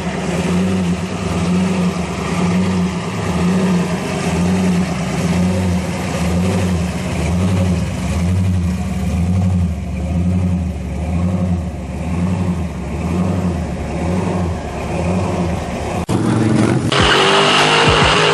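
A car engine running with an even, rhythmic pulse in its note. About seventeen seconds in it gets louder and harsher.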